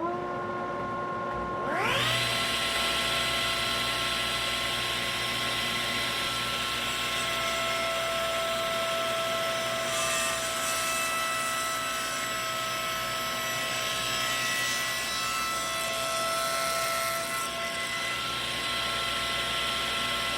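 Table saw spinning up, its whine rising in pitch at the start and again about two seconds in, then running at speed with a steady whine and hiss. From about ten seconds to about seventeen seconds a harsher hiss is added as the blade crosscuts the end of the walnut stock blank.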